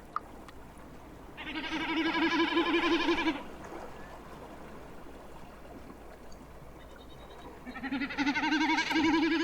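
Common snipe drumming: a fast-wavering, bleating hum made by the bird's special outer tail feathers vibrating as it dives from on high. It comes in two swelling bouts of about two seconds, the second beginning about eight seconds in.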